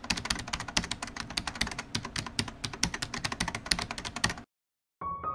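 Rapid keyboard typing clicks that stop abruptly about four and a half seconds in. After a brief gap, piano music begins near the end.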